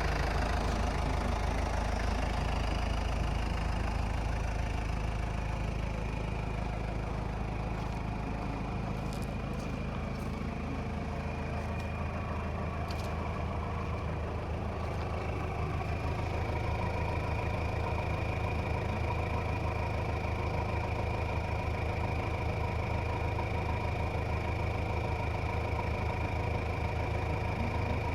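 Toyota Land Cruiser Prado KZJ78W's 3.0-litre turbo-diesel engine idling steadily.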